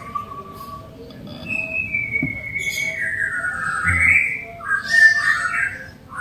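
A bird calling in whistled notes: a steady note that stops about a second in, then a long note that slides down and back up, and a warbling phrase near the end.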